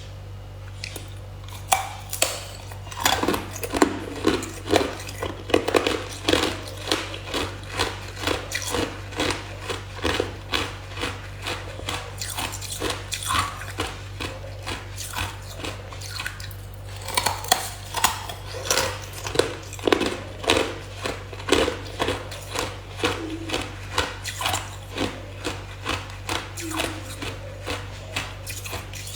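Hard ice being bitten and chewed close to the microphone: a steady series of sharp crunches, about two a second, with a short pause about halfway through.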